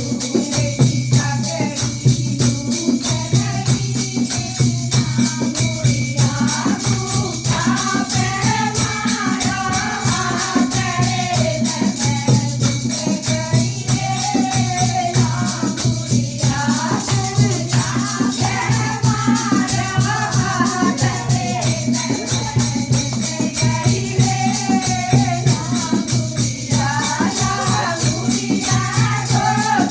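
Languriya bhajan, a Hindi folk devotional song: a voice singing over fast, even jingling percussion and a steady low beat.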